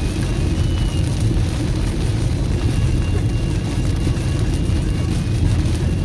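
Heavy rain falling, a steady noise with a strong low rumble beneath it.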